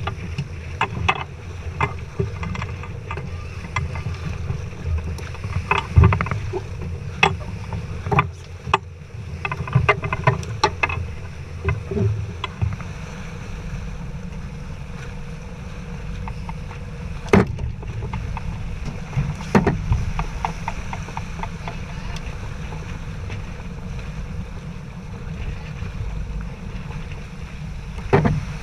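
Sailboat under way: a steady low rumble of wind and water, with scattered knocks and clicks of gear on board, thickest over the first twelve seconds, then two louder knocks further on.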